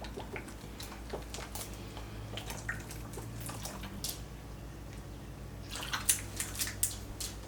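Kitchen sounds of a marinade being made: liquid sloshing and light clicks and taps of utensils and containers, over a low steady hum. The clicks come thicker near the end.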